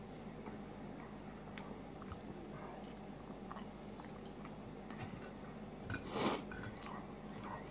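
A person chewing a mouthful of food, faint mouth sounds with scattered small clicks over a steady low hum. A short, louder puff of noise comes about six seconds in.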